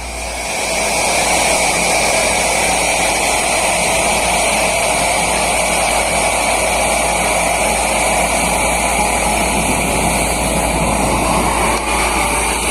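Borewell drilling rig running: a loud, steady engine and air-compressor noise with a continuous high hiss, swelling to full level within about the first second.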